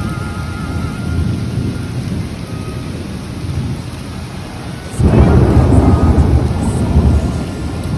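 Thunderstorm: rain falling steadily under low rolling thunder, then a loud peal of thunder breaks in suddenly about five seconds in and keeps rumbling.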